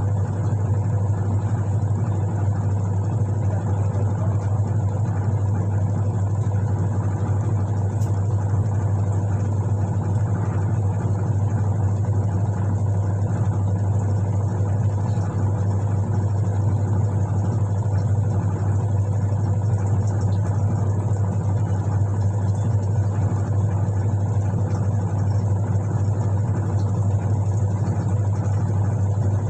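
Whirlpool White Magic Classic 6.5 kg washing machine running, its motor giving a steady low hum that does not change.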